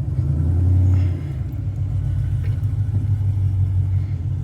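Car engine fitted with aftermarket headers running at low speed, heard from inside the cabin as a low rumble; it swells briefly about half a second in, then settles to a steady rumble.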